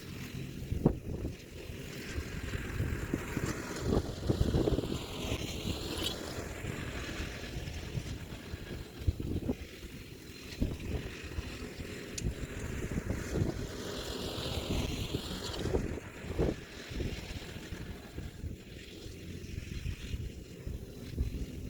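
Kioti DK4710SE tractor's diesel engine running steadily while it pulls a landscape rake through the soil, with irregular knocks and rattles over the engine.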